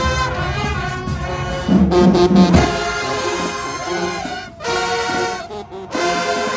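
High school marching band's brass section playing held notes, with a louder low passage about two seconds in and short breaks between phrases near the end.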